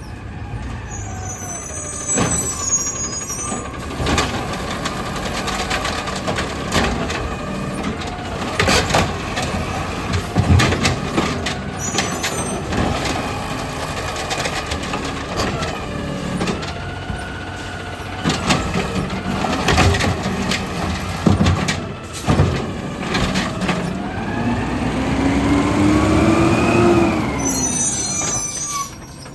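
Garbage truck working a collection stop: the engine runs while its hydraulics whine up and down, and a string of bangs and clatter sounds as a cart is tipped and shaken out. Short high squeals come near the start and near the end, with a long rising-then-falling hydraulic whine shortly before the end.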